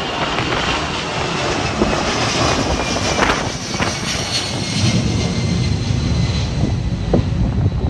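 Jet airliner engines running loud and steady, a rushing noise with a faint high turbine whine, as the plane passes. Wind buffets the microphone with a low rumble.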